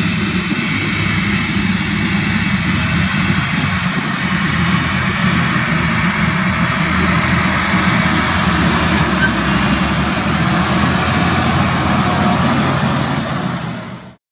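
Farm tractor's diesel engine running steadily under field work, with a constant hiss of machinery over it; it fades out near the end.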